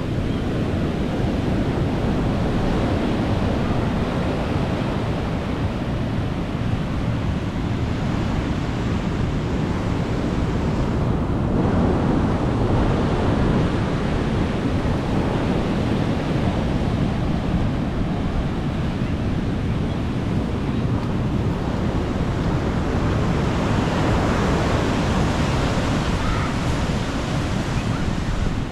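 Sea waves breaking and washing up on a beach, a steady surf with swells about halfway through and again near the end, with wind buffeting the microphone.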